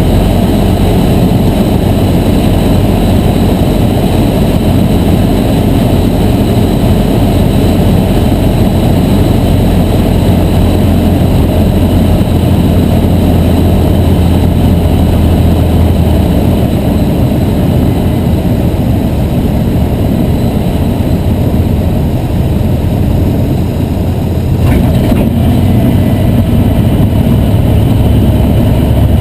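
Cessna 152's four-cylinder Lycoming engine and propeller droning steadily in flight; the low note drops about halfway through and shifts again a few seconds before the end.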